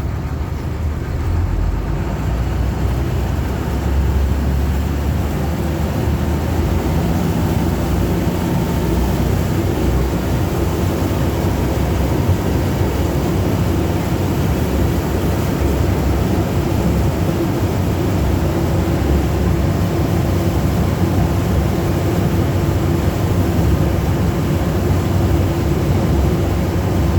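Amphibious duck boat's engine running steadily under way, a loud, even, low drone.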